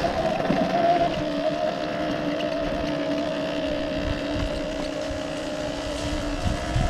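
Sur-Ron Ultra Bee electric enduro motorcycle under way, its motor and drive giving a steady two-note whine over a rushing noise.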